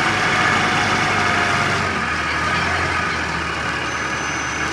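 Wheel loader's diesel engine running steadily at idle.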